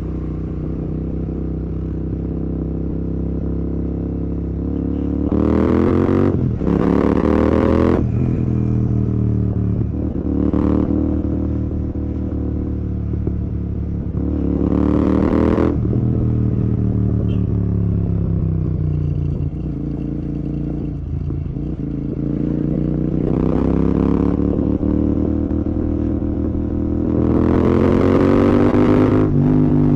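Royal Enfield Continental GT 650's 648 cc parallel-twin engine through an aftermarket Red Rooster exhaust, under way on the road. The engine note climbs in several throttle pulls, broken by short dips as gears change, and falls away between them as the rider rolls off. The loudest pull comes near the end.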